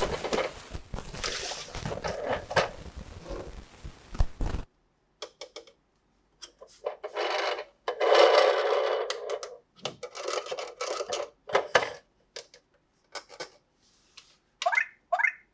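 Plastic toy packaging being handled and opened: a long stretch of dense crinkling, then scattered plastic clicks and short rustles, with two short rising squeaks near the end.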